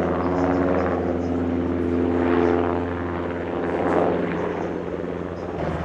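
Tactical transport helicopter's engines and rotor running: a steady, loud drone carrying a stack of humming tones.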